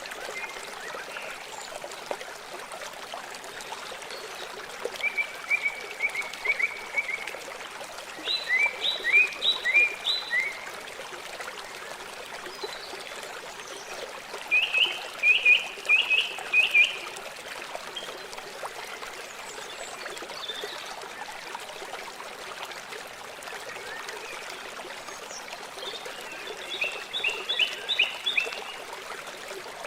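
River water flowing steadily. Over it come four runs of short, high chirps from an animal, several notes each, a bit over two a second: about 5, 8, 14 and 26 seconds in.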